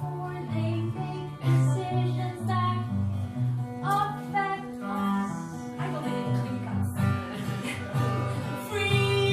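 Live band music led by guitar over a moving bass line.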